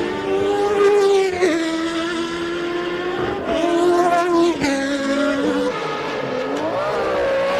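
Engines of several 1990 Formula One race cars running at high revs, their pitches overlapping. The notes step with gear changes about a second and a half in and again midway, and one engine note sweeps up and back down near the end as a car goes by.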